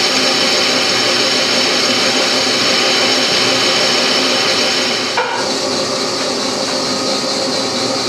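Parting tool cutting off a pulley blank on a South Bend lathe: a loud, steady squealing chatter made of several held tones. About five seconds in there is a brief knock and the sound drops slightly, then carries on.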